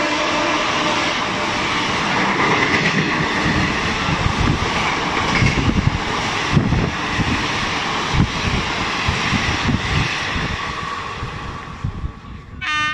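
Passenger train coaches rushing past at speed: a steady rush of wheel and air noise with thuds of the wheels over rail joints, fading away near the end. Just before the end a train horn sounds briefly.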